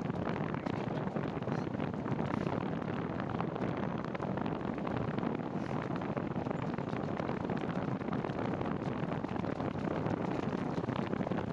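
Steady rushing wind noise on the microphone of a moving bicycle, an even hiss with no change in level.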